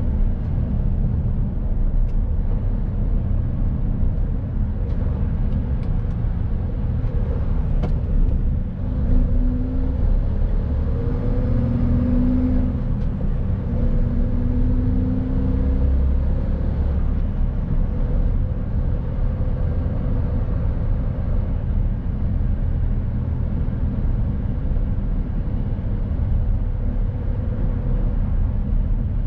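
Mercedes Actros truck driving: a steady, loud low rumble of engine and road noise. An engine tone rises out of it three times in the middle.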